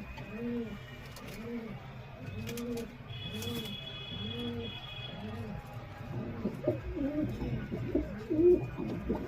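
Domestic pigeons cooing: a regular series of arching coos, about one a second, then louder, more uneven cooing near the end.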